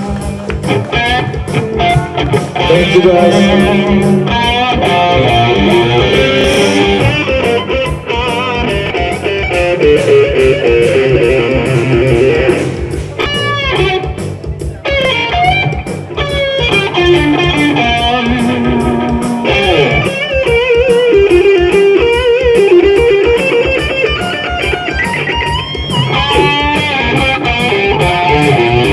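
Live rock band playing: electric guitars over bass and a steady drum beat, with a bending lead guitar line.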